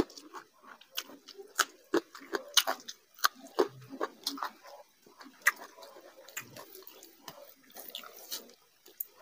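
Close-miked eating: wet chewing, lip smacks and irregular mouth clicks as a mouthful of rice and curry is worked, with a bite into a green chilli right at the start.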